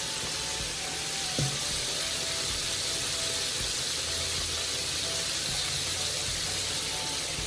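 Steady sizzling hiss of food frying in a hot pot on the stove, with one soft knock about a second and a half in.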